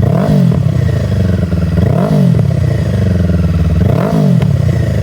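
2024 Kawasaki Ninja 500 SE's parallel-twin engine through a Yoshimura AT2 full exhaust, idling with three quick throttle blips about two seconds apart, each rising and falling sharply.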